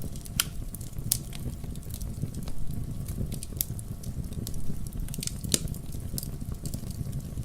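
Wood fire in a fireplace burning and crackling, with irregular sharp pops over a steady low rumble of the flames.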